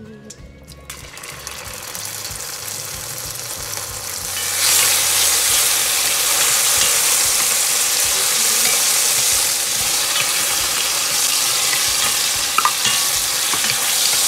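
Garlic and onion sizzling as they fry in hot olive oil, stirred with a wooden spoon. The sizzle starts about a second in, turns louder at about five seconds and then holds steady.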